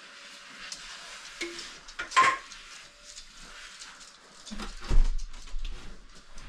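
Clinks and knocks of metal tools and hardware being handled during door fitting: a sharp metallic clink with a short ring about two seconds in, and a heavier knock about five seconds in, among smaller clicks.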